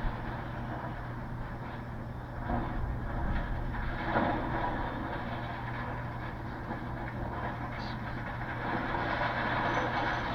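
Diesel engine of heavy demolition machinery running steadily, with a few louder rough knocks about two to four seconds in.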